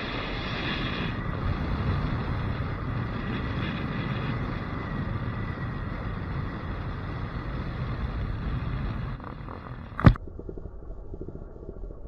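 Motorcycle riding at speed, its engine and the wind rushing over the microphone making a steady rumbling noise. About nine seconds in, the noise drops away to a quieter, duller sound, and a single sharp thump follows a second later.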